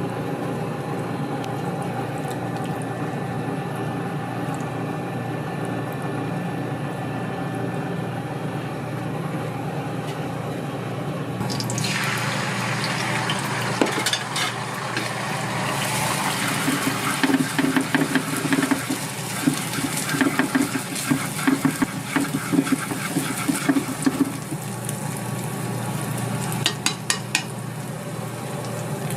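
A steady hum, then about twelve seconds in liquid rushes into a hot metal pan with a hiss. Rapid clatter and scraping of a metal utensil against the pan follows.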